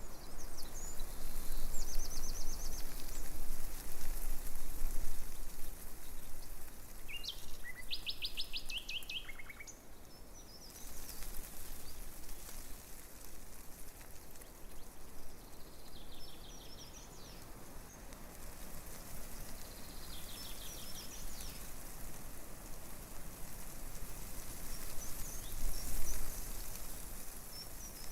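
Small songbirds calling in short, rapid trills every few seconds over a steady rush of breeze through tree leaves.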